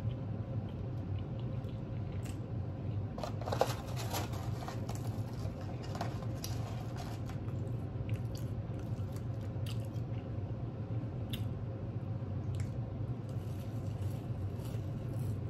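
Close-up chewing and mouth sounds of a person eating crispy spicy chicken nuggets and French fries, with scattered crunches and smacks over a steady low hum.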